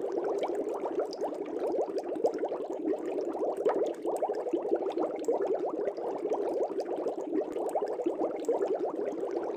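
Steady stream of air bubbles in an aquarium, heard underwater: a dense run of quick little rising blips, bubbling without a break.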